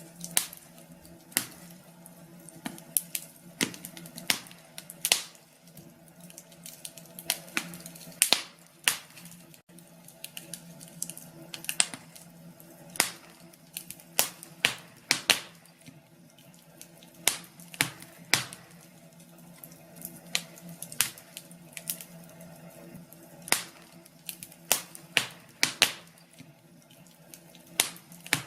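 Wood fire crackling in a fireplace: irregular sharp pops and snaps, a few each second, over a low steady hiss.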